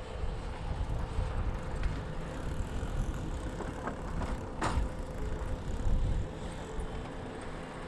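An engine running steadily, with a low rumble, and a sharp knock about halfway through.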